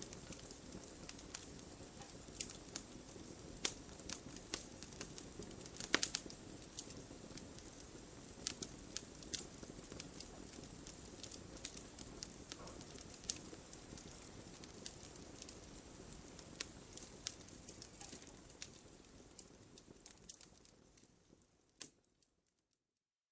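Wood fire crackling: a steady low hiss with frequent sharp pops, one louder pop about six seconds in. The sound fades out to silence near the end.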